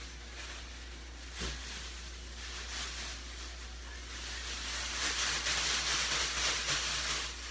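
Chicken pieces being shaken in a plastic bag of seasoned flour: a rustling noise that grows louder about halfway through, with a soft knock about a second and a half in.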